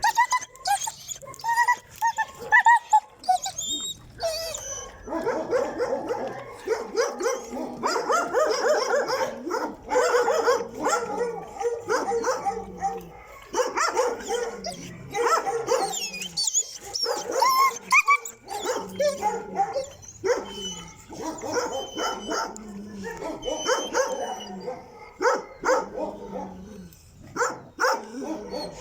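Stray street dogs barking and yipping over one another in short, repeated calls, busiest after the first few seconds.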